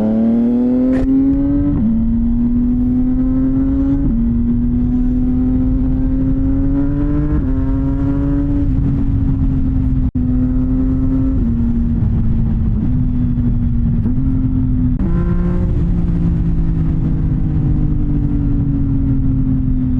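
CFMOTO 675NK's three-cylinder engine through a titanium full-system exhaust, rising in pitch as it accelerates and dropping at each gear change several times. Near the end the pitch falls steadily as the bike slows.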